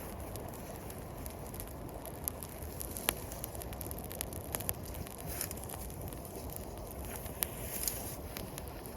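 Wood fire crackling, with scattered sharp pops and snaps over a steady low rushing noise.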